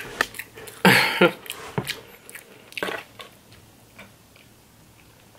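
Close-miked mouth sounds of eating: chewing and smacking, loudest about a second in and again about three seconds in.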